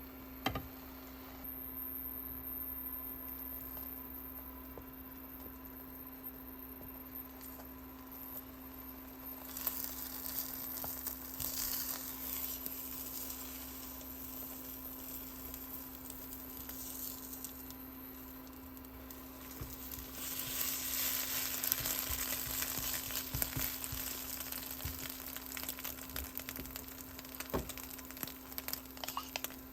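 Food sizzling in a hot frying pan, getting louder about ten seconds in and again around twenty seconds, with a few sharp clicks over a steady low hum.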